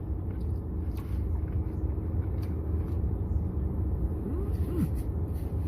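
Steady low rumble of a car heard from inside the cabin, with a few faint ticks and rustles over it.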